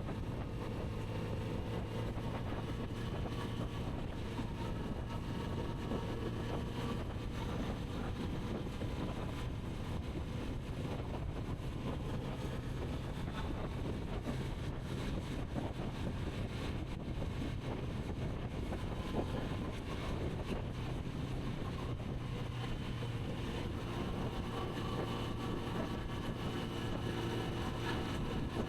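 Kawasaki Z900RS inline-four engine running at a steady cruise, with wind rushing over the microphone.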